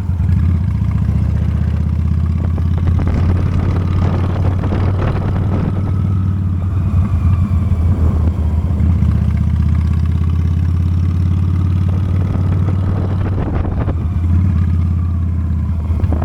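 Honda Steed V-twin motorcycle engine running steadily while riding.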